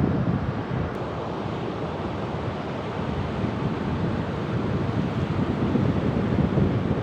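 Ocean waves washing in, a continuous surge of surf that swells louder over the last few seconds, with wind on the microphone.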